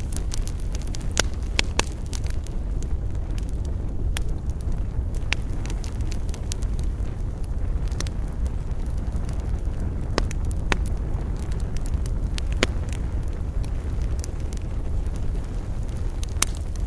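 Wood fire burning, with a steady low rumble and sharp crackles and pops every second or two.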